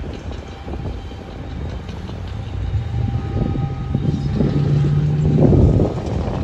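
Freight train of tank cars rolling past, its wheels knocking and clacking over the rail joints over a low rumble. A low steady hum builds and is loudest a little before the end, then drops away.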